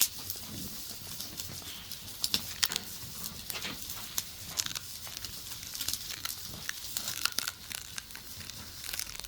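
Irregular crinkling and crackling with many sharp clicks, over a faint steady low background.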